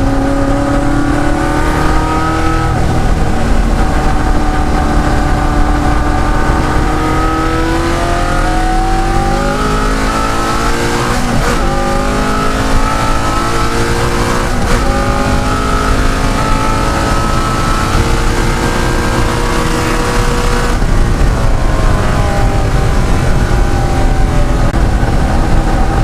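De Tomaso Pantera's Ford V8 racing engine pulling hard under load, its pitch climbing through the gears. There are two quick upshifts around the middle, then it eases off about three quarters of the way through.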